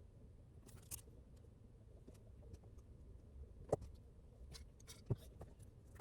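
A few scattered sharp clicks and taps over a faint, steady low rumble.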